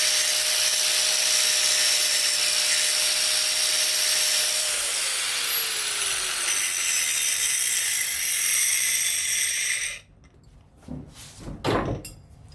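Angle grinder grinding bevels onto the broken ends of a steel mower deck-lift rod. It runs with a steady whine whose pitch drops about halfway through. It cuts off about ten seconds in, followed by a few short knocks.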